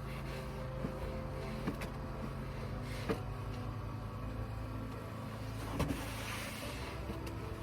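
A steady low motor hum, with a few sharp clicks and a short scraping swell near the end.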